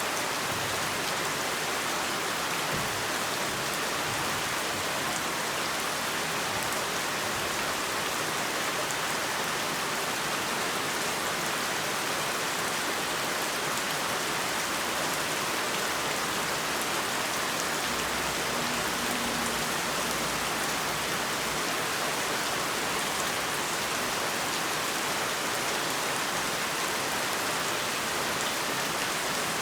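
Heavy rain falling steadily, a dense even hiss of drops hitting surfaces. A faint low rumble rises under it for a few seconds past the middle.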